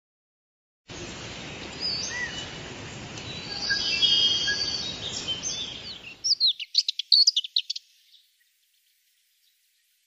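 Several songbirds calling and whistling over a steady background hiss, with assorted short whistles and glides. About six seconds in, a quick run of sharp chirps starts, and it stops about two seconds later.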